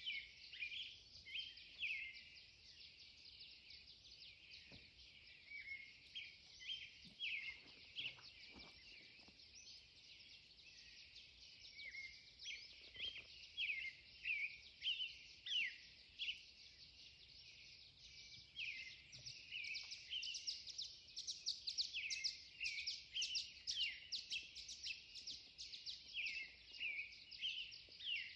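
Several songbirds singing at once: many short chirps and quick sliding whistled notes overlapping, growing busier in the second half.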